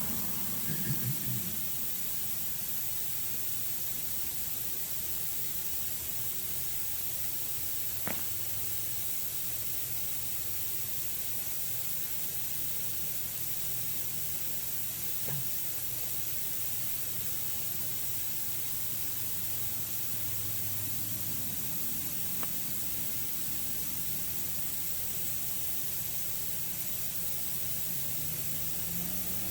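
Steady high-pitched hiss with no change, broken only by three faint clicks spread about seven seconds apart.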